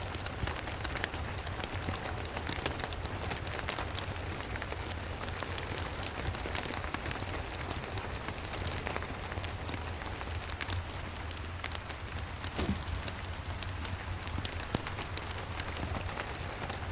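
Steady rain, with scattered sharp crackles from a wood fire and a low steady rumble underneath.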